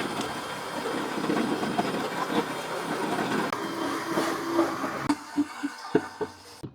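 A power tool grinding rust off a microwave oven's metal interior: a steady, rough, grating noise for about five seconds, then a few separate knocks and scrapes before it stops near the end.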